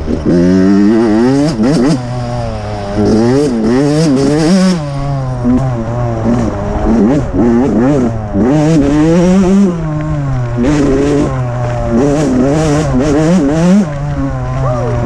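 Dirt bike engine revving up and down repeatedly as it is ridden, its pitch climbing and dropping every second or two as the throttle is opened and closed.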